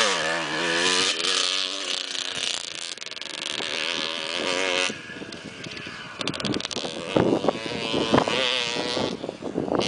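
Motocross bike engine passing close, its pitch dropping sharply as it goes by, then revving up and down as it rides on. About five seconds in it turns quieter, then revs up and down again.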